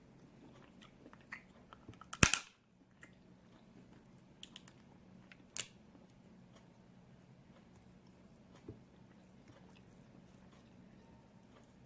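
Snow crab leg shell snapping open with one loud crack about two seconds in, then a few small clicks and crackles of shell.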